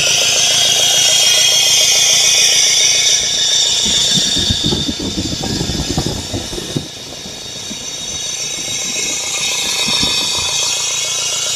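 Engine running at idle in an open engine bay, with a rapid, even ticking rhythm and a steady high-pitched whine over it. About four seconds in, a louder low rumble comes in for a few seconds, then the level dips briefly and the idle settles back.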